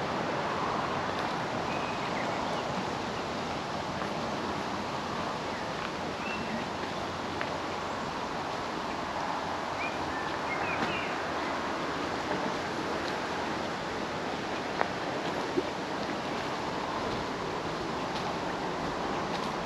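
A steady rushing background noise with a few faint, brief bird chirps, and two short sharp clicks about three-quarters of the way through.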